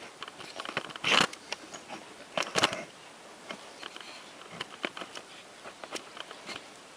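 Hand handling of metal parts on a lathe: scattered light clicks and knocks, with louder clatters about a second in and again around two and a half seconds in. No motor is running.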